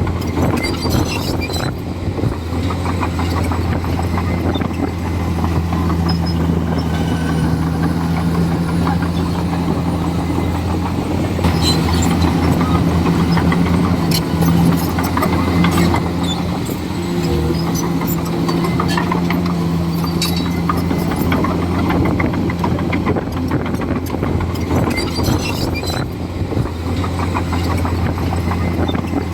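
Komatsu D41E bulldozer's diesel engine running steadily under load, with scattered clanks and knocks. Its pitch shifts slightly a little past halfway.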